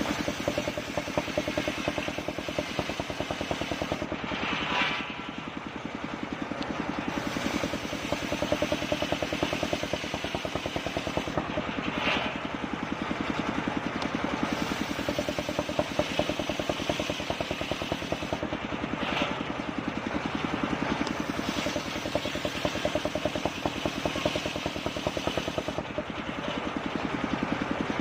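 Engine driving a home-built circular sawmill, running steadily as the saw rips kapok wood, with brief surges a few times.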